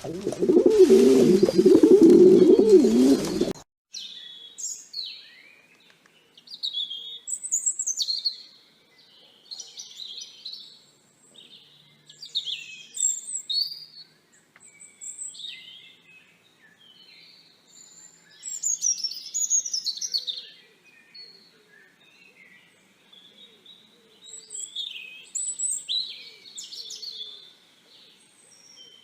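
A pigeon cooing loudly, cut off abruptly about three and a half seconds in. Then a small songbird chirps and warbles in short, high, separate phrases with brief pauses between them.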